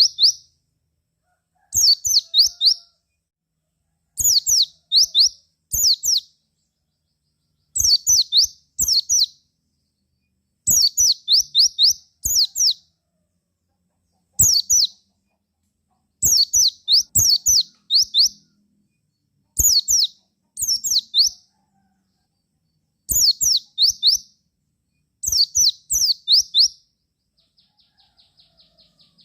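White-eye (pleci) calling in repeated bursts of several quick, high, downward-sliding chirps, one burst every second or two. Near the end it switches to a faint, fast ticking trill.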